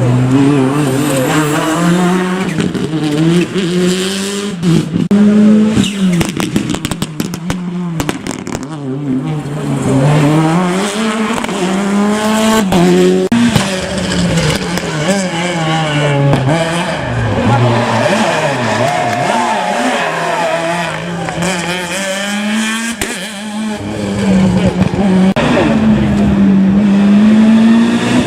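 Rally car engine revving hard, its pitch climbing and dropping again and again as it accelerates, shifts and lifts through the stage, with tyres squealing. A run of sharp crackles comes about six to eight seconds in.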